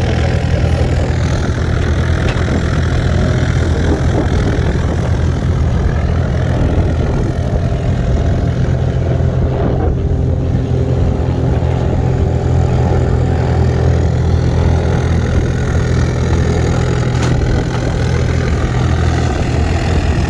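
Light aircraft's piston engine and propeller idling, a steady low drone.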